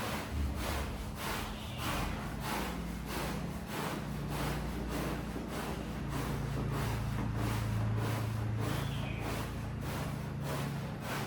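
Rhythmic strokes on a wet, muddy rug, about two a second, as it is scrubbed or scraped. A steady low machine hum runs underneath and grows louder midway.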